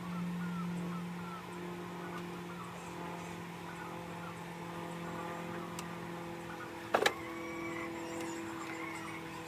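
Honeybees buzzing around an opened hive: several overlapping steady hums that drift slightly in pitch. A single sharp knock sounds about seven seconds in.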